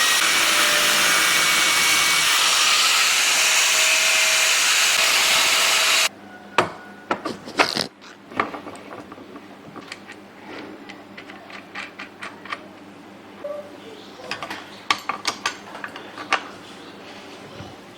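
A loud, steady hissing noise from a workshop tool stops suddenly about six seconds in. Scattered light clicks and taps of parts being handled follow.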